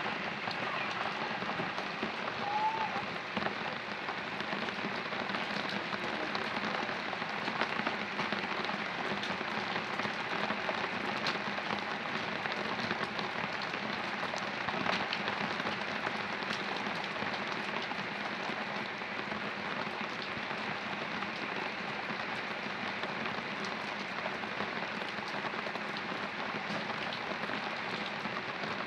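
Heavy rain falling steadily: a dense, even hiss with many individual drops ticking sharply close by.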